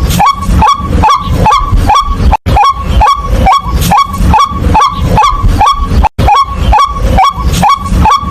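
White-breasted waterhen calling: one loud, monotonous note repeated about three times a second, each note rising sharply. The run cuts out for an instant twice.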